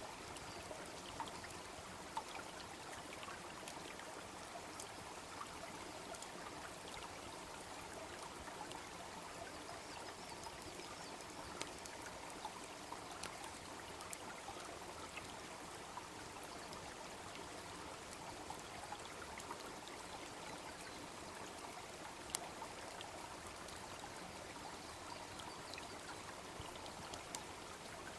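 Small brook babbling steadily, with occasional sharp crackles and pops from a wood campfire. The loudest pop comes about 22 seconds in.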